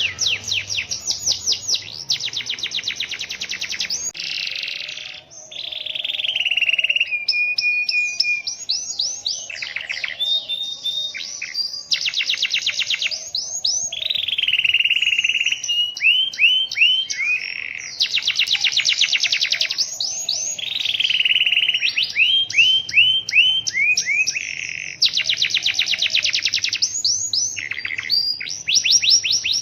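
Canary singing a long, near-unbroken song of rapid rolling trills and varied phrases, some notes sweeping down in pitch. There is one short break about five seconds in.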